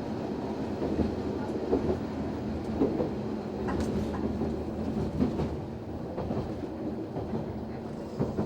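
Noto Railway NT100 diesel railcar running, heard from inside the cab: a steady rumble and engine hum, with irregular clunks of the wheels over rail joints about once a second.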